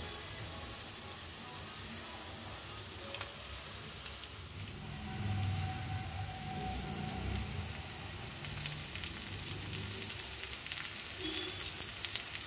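Chicken pieces dry-frying in a pan, a steady sizzle with crackles and pops that come more often in the second half.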